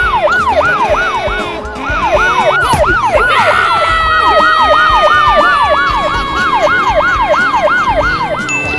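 Police siren in a fast yelp, its pitch sweeping up and down about three times a second. About three and a half seconds in, a second held tone joins and slowly drifts down in pitch.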